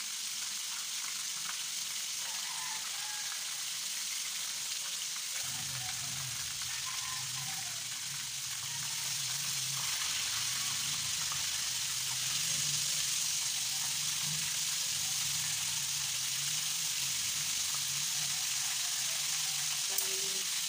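Breaded chicken pieces deep-frying in hot oil in a pan: a steady sizzle throughout. A low hum joins about five seconds in.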